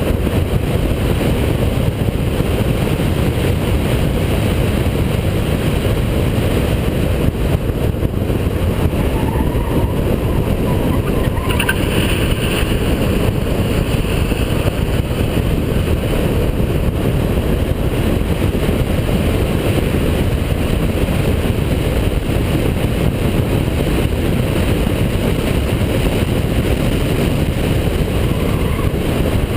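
Holden VP Commodore's 3.8-litre V6 running hard while the car laps a race circuit, with steady road and wind noise throughout.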